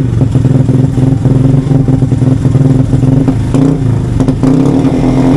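A 125 cc motorcycle fitted with an aftermarket SC Project exhaust, running steadily at an even engine note. The owner says the bike is in bad health and the engine is failing.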